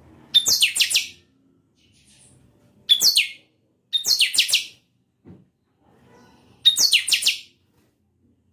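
Buffy-fronted seedeater (chanchão, pixoxó) singing four short, loud phrases. Each opens with a sharp note and runs into a quick series of falling, sweeping notes.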